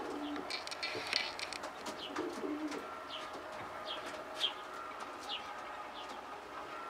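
Pigeons cooing in a loft, a low murmur about a second in and again after two seconds, over a run of short, high, falling chirps from birds.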